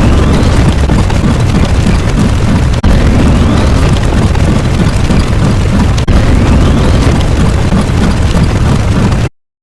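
A loud, continuous rumbling sound effect with heavy low rumble, restarting about every three seconds with a faint rising whistle in each repeat. It cuts out briefly near the end.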